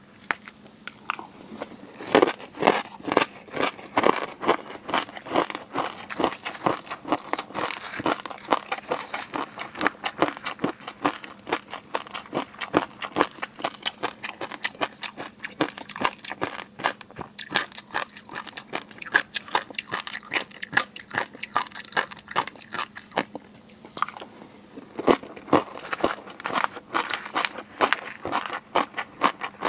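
Close-miked eating of seafood: rapid crunching, biting and wet chewing, with a short lull before the chewing picks up again near the end.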